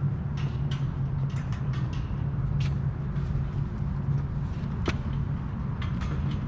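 Steady low rumble, with a string of irregular footstep scuffs and clicks over it and one sharper click about five seconds in.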